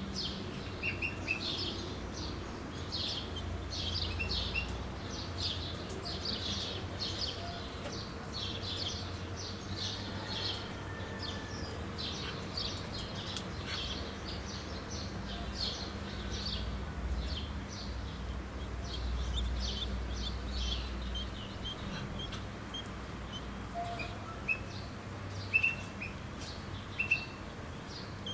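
Birds chirping rapidly and continuously, with a few short, louder peeps just after the start and in the last few seconds.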